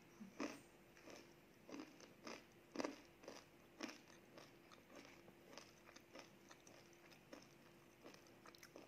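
Close-up chewing of a crunchy cookie: a string of crisp crunches, strongest in the first four seconds, then softer and sparser chewing.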